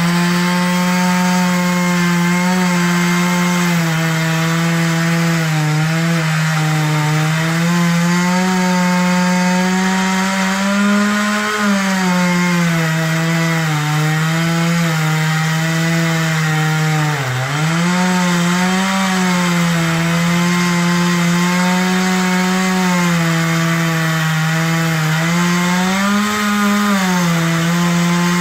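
Chainsaw running at high speed without let-up, its pitch sagging briefly now and then as it works through wood, most deeply about seventeen seconds in.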